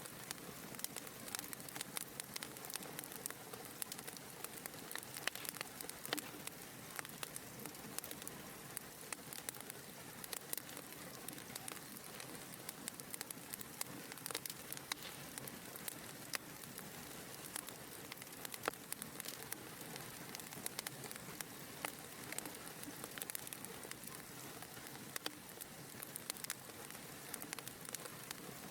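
A fireplace fire crackling: many small sharp pops and ticks scattered irregularly over a steady soft hiss.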